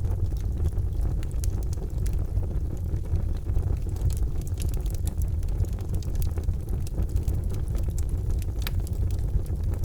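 Charcoal fire burning in a fireplace: a steady low rumble under frequent small, irregular crackles and pops.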